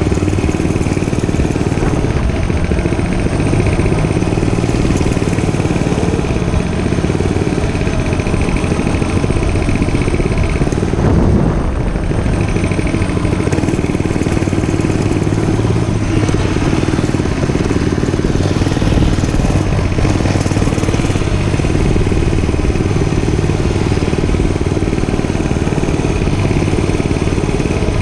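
Dirt bike engine running steadily during a ride, with a brief break in its even sound about eleven seconds in.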